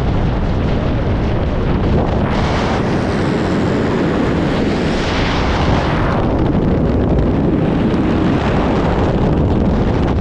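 Loud, steady wind rushing over the skydiver's camera microphone, with a hissier stretch from about two to six seconds in.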